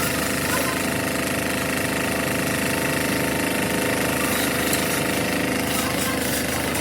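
A machine running steadily with a rapid, even pulsing beat.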